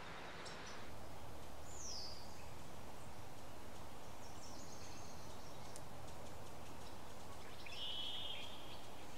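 Steady outdoor background noise with a few faint, brief wild bird calls: a falling whistle about two seconds in, short high notes around the middle, and another short call near the end.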